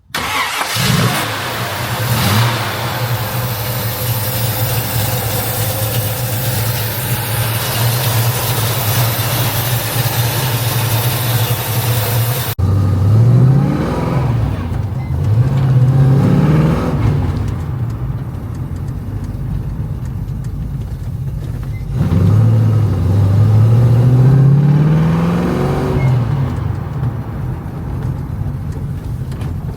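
1969 Ford Mustang Mach 1's V8 engine under way: a steady engine note with a lot of hiss, then, after a sudden cut about twelve seconds in, the engine pulling with its pitch climbing and dropping back, twice.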